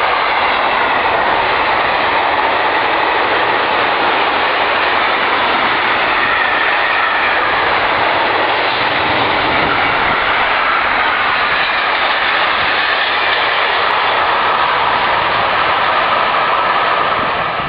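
Mixed freight train of tank wagons, covered wagons and stake wagons rolling past close by: a loud, steady noise of steel wheels running on the rails.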